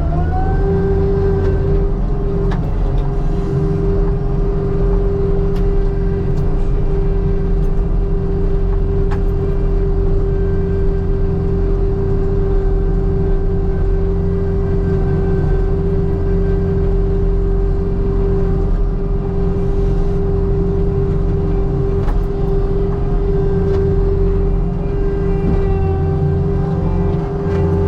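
Skid steer engine running steadily while working the dirt, with a constant whine over a deep rumble.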